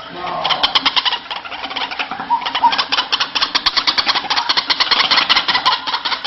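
White-breasted waterhen calling: a rapid, rhythmic run of harsh notes at about ten a second.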